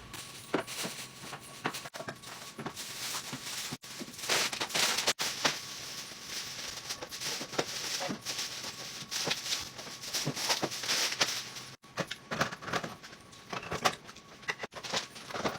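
Groceries being put away in a fridge: packaging rustling, with many short knocks and clicks as containers and items are handled and set down.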